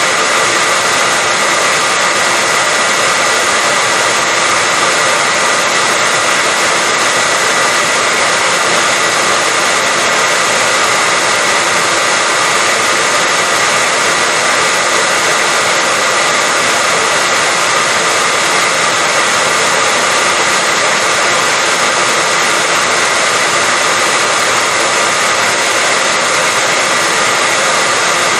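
Hair dryer running continuously at a steady loud level: an even blowing rush with a constant high whine from the motor.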